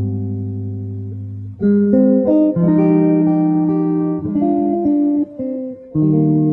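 Background music: acoustic guitar playing sustained chords and picked notes, with a change of chord about one and a half seconds in and again near the end.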